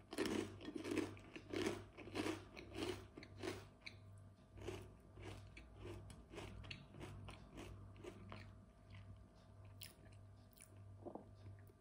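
A person chewing crunchy food with a steady rhythm of about one and a half chews a second. The chewing is loudest in the first few seconds and softer after that.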